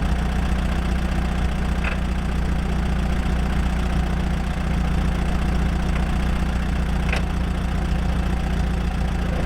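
1951 Allis-Chalmers Model B tractor's four-cylinder gasoline engine idling steadily.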